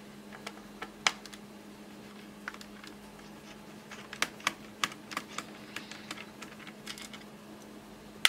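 Irregular light clicks and taps from work on an HP 625 laptop during disassembly: a screwdriver on the small keyboard screws and the laptop's plastic parts being handled. A steady faint low hum runs underneath.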